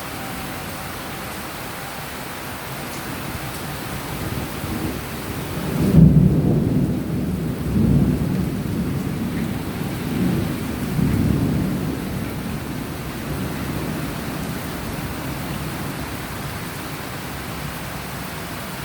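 Steady rain falling, and about six seconds in a loud rumble of thunder that rolls on in several swells for some seconds before fading back under the rain.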